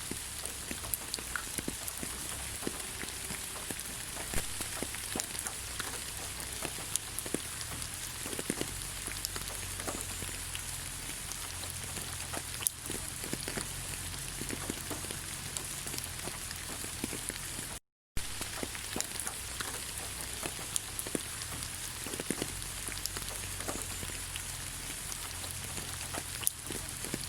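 Steady rain falling on leaves: an even hiss scattered with the ticks and pats of single drops. The sound cuts out for an instant about two-thirds of the way through.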